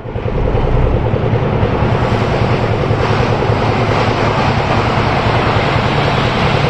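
Heavy diesel engine of earthmoving machinery running steadily with a pulsing rumble, and a loud rushing noise over it that grows stronger about two seconds in.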